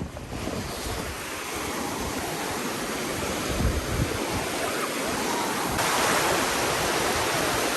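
Small sea waves washing in the shallows, with wind on the microphone; the rush of noise swells about six seconds in.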